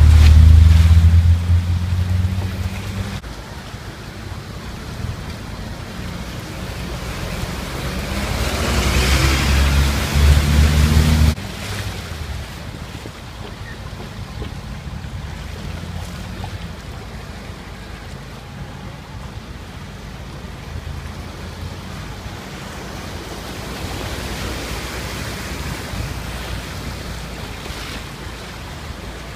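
Floodwater surging and splashing on a flooded road as cars drive through it. A heavy low rumble sits under it at the start and again from about 7 to 11 seconds in, where it cuts off abruptly; after that there is a steadier, quieter rush of water.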